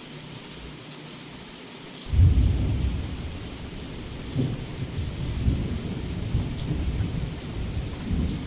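Steady heavy rain, then about two seconds in a sudden loud crack of thunder that rolls on as a low rumble with several swells.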